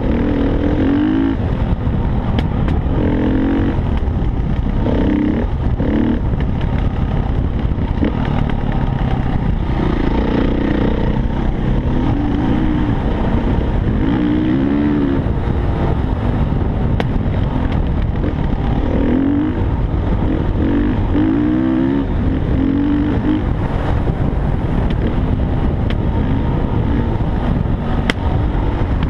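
Dirt bike engine running and revving up and down again and again, its pitch rising and falling with the throttle over a constant heavy rumble.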